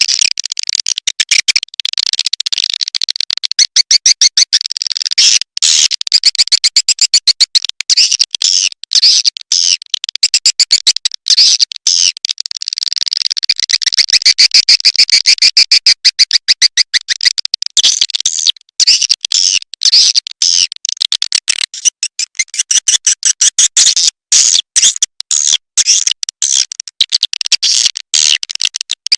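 Swiftlet call lure sound: a dense, rapid stream of high chirps and twitters from a swiftlet-house call recording, broken by brief short gaps. It is the sound played to draw swiftlets in to roost and nest.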